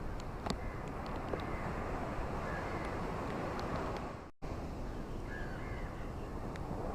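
Ocean waves washing steadily on a shore, with a bird calling faintly a couple of times. The sound drops out for a split second about four seconds in.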